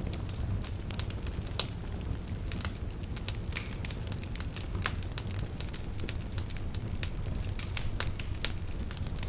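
Campfire burning, with irregular sharp crackles and pops of burning wood over a steady low rumble of the flames.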